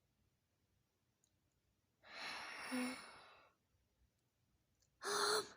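A person sighing sadly: one long, breathy sigh with a brief voiced tone in the middle. A short voiced sound follows near the end.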